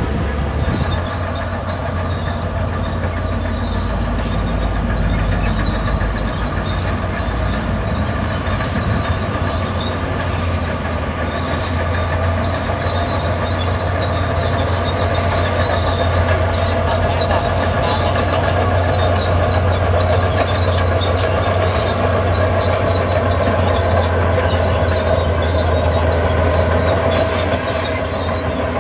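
Heavy diesel construction machinery running steadily and loudly, a deep continuous rumble with a faint high whine over it that holds throughout.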